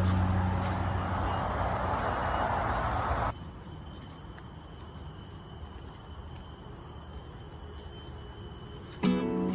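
Insects chirring steadily in the forest, a few thin high tones held on. For about the first three seconds a louder hiss lies over them and then cuts off abruptly.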